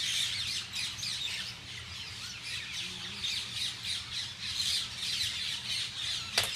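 A large flock of green parrots squawking and chattering continuously at their roost in palm trees, many calls overlapping. A single sharp click sounds near the end.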